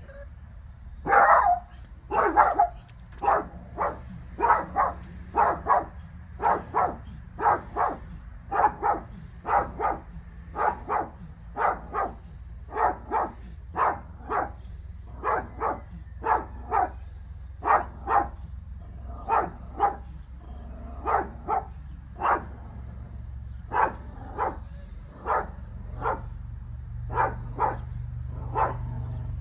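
A dog barking over and over, roughly one or two barks a second, loudest at the start, with a steady low hum underneath that rises a little near the end.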